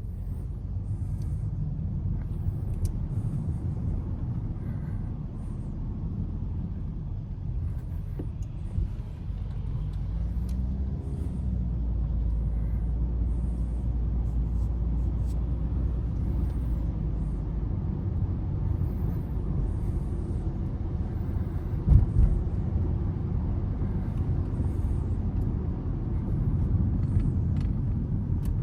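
Car driving in city traffic: steady low engine and road rumble, with a brief rising engine note about ten seconds in. A single sharp knock about twenty-two seconds in is the loudest sound.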